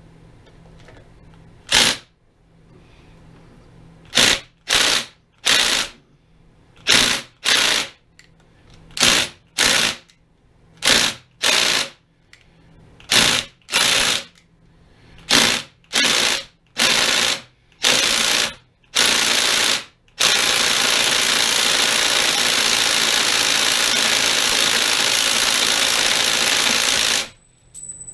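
Impact wrench hammering in about sixteen short bursts, then held on for about seven seconds before stopping abruptly, trying to break a seized part on the lathe's cross feed free.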